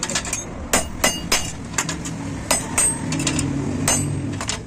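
A hammer striking metal motorcycle wheel parts in a series of sharp, irregularly spaced blows, some leaving a brief metallic ring.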